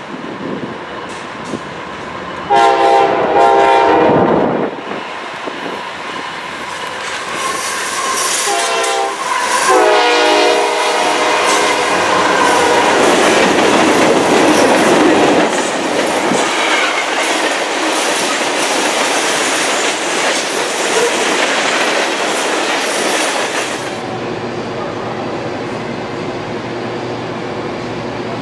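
A Kansas City Southern diesel locomotive sounds its horn twice as it leads a freight train past, a long blast about 2.5 s in and another about 9 s in. The freight cars then roll by with wheels clacking over the rails. Near the end the sound cuts to a quieter steady hum.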